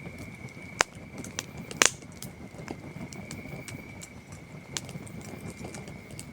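Campfire wood crackling, with sharp pops, the loudest nearly two seconds in, over a low steady burning noise. Crickets trill steadily in the background.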